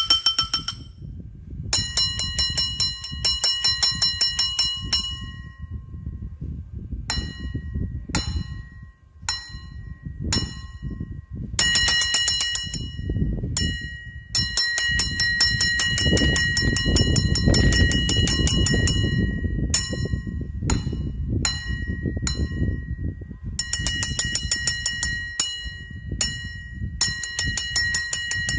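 A bakso vendor's bowl struck rapidly with a spoon, the ringing tapping call that meatball-soup hawkers use to announce themselves: runs of quick bright strikes with short pauses between them, over a low background rumble.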